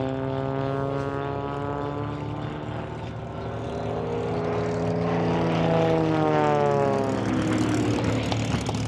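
Propeller airplane engine flying past overhead with a clear Doppler shift. Its pitch falls at first, then a pass builds to its loudest about six seconds in, and the pitch drops as the plane moves away.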